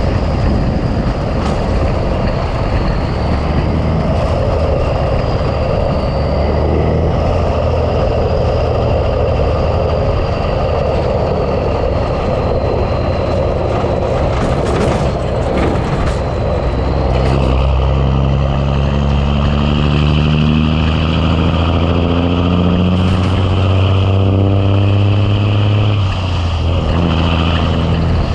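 Big Cam Cummins inline-six diesel of a 1986 Ford LT9000 tractor pulling a heavy load. The engine runs steadily at first, then its pitch climbs through a gear from a little past halfway and drops suddenly at a gear change near the end.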